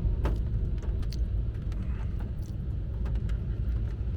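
Steady low rumble of a passing BNSF freight train heard from inside a closed car, with scattered light taps, such as rain on the body.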